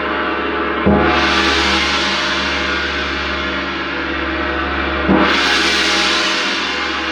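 Gong-like struck metal percussion: two strokes about four seconds apart, each ringing on long and shimmering.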